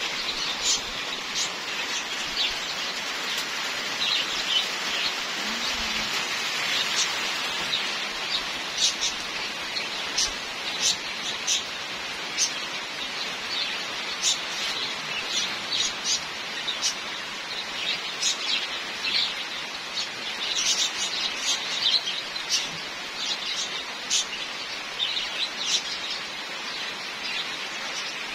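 Steady light rain hissing, with many short bird chirps scattered throughout.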